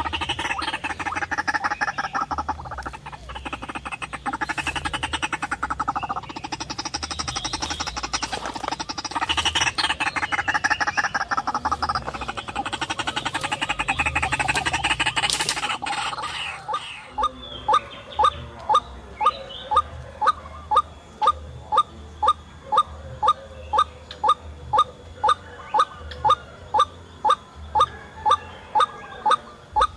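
White-breasted waterhen calls: a dense, overlapping run of harsh croaking calls, which gives way about halfway through to a single, evenly repeated sharp call about three times every two seconds.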